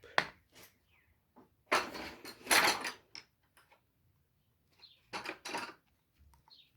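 Tools being rummaged through in search of a smaller socket: a click, then short scraping and rattling noises in two clusters, the loudest about two to three seconds in. A bird chirps faintly in the background.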